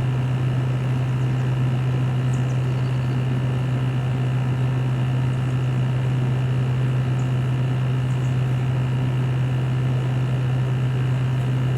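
Outdoor side of an LG 6000 BTU window air conditioner running: its GMCC rotary compressor gives a steady low hum, with the condenser fan's steady rushing air over it.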